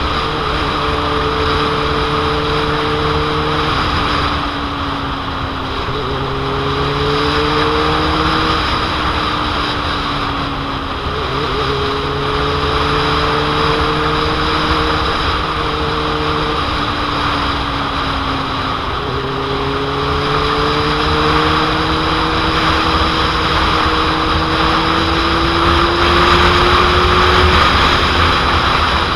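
2001 Suzuki GSX-R750's inline-four engine running on the move, its pitch climbing slowly and dropping sharply several times as the rider works the throttle and gears. Heavy wind noise buffets the microphone throughout.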